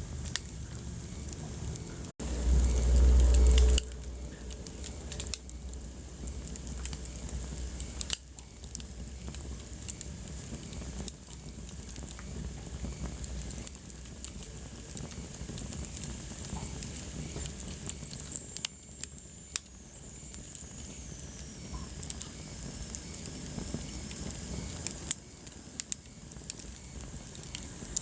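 Wood fire crackling in a fireplace: irregular pops and snaps over a steady hiss. A loud low rumble lasts about a second and a half near the start, and a faint high whistle slowly falls in pitch midway.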